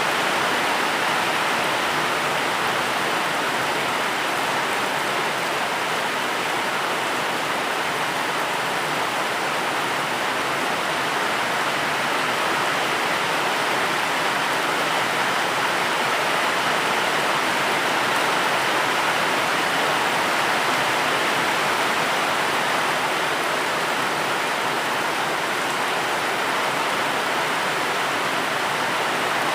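Steady rainfall: an even, unbroken hiss with no single drops standing out.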